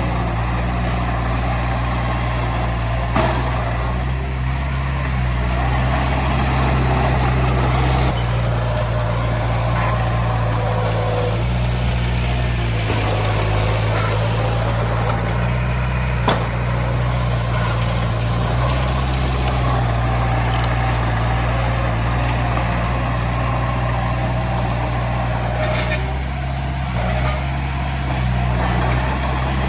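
Heavy diesel construction machinery running steadily, its engine note shifting a little at times, with a few sharp knocks.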